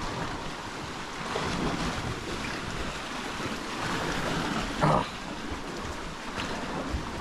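Sea waves washing against the shore, a steady noise that swells and eases, with some wind on the microphone. A brief, short sound stands out about five seconds in.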